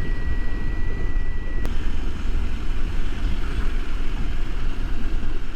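Husqvarna Norden 901's parallel-twin engine running at riding speed, with steady road and wind noise. A thin, steady high whistle, which the rider can't trace on the bike, cuts off with a faint click about a second and a half in.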